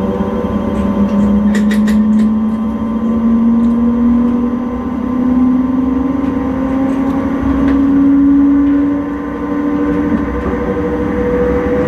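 Electric intercity train heard from the driver's cab, its traction motor whine rising steadily in pitch as it gathers speed, over the low rumble of wheels on track. A few sharp clicks come about two seconds in, and the whine fades near the end.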